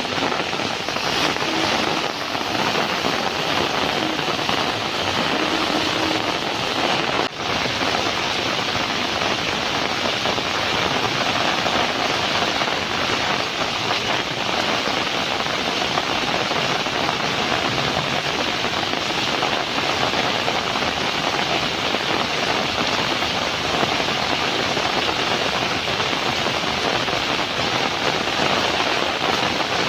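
Heavy rain falling steadily, a dense even hiss, with one brief dip about seven seconds in.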